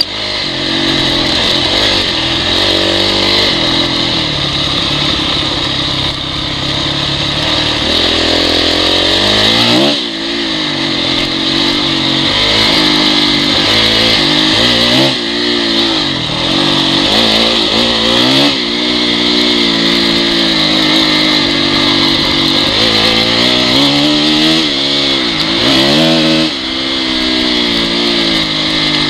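Honda CRF dirt bike's four-stroke single-cylinder engine, revving up and falling back again and again as the throttle is opened and closed, over a steady hiss.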